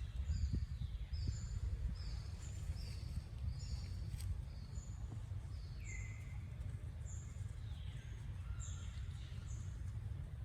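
Birds chirping: short high notes that fall in pitch, repeated about twice a second, over a steady low rumble.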